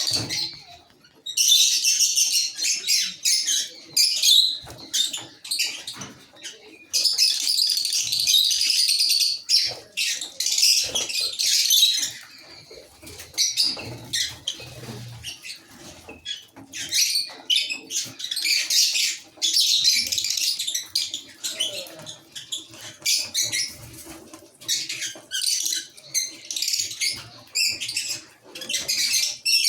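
A colony of lovebirds calling in high, shrill chattering bursts, each a second or two long, with short pauses between.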